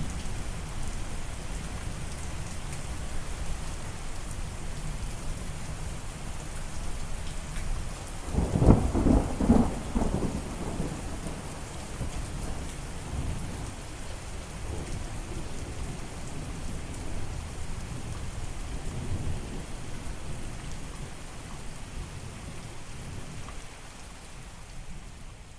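Steady rain with a loud thunderclap about eight seconds in, rolling on as rumble for a couple of seconds, with fainter rumbles afterwards. The rain fades down near the end.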